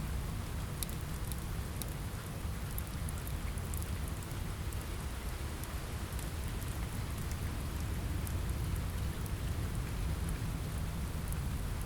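Steady rain falling, an even hiss over a low rumble. Faint sharp crackles from a fireplace are scattered through it.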